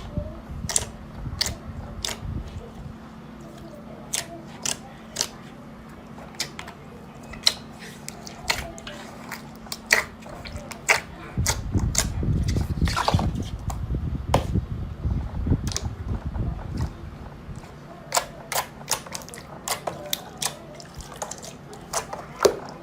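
Slime being squeezed and poked, giving scattered wet clicks and pops, with a denser, louder stretch of squishing about halfway through.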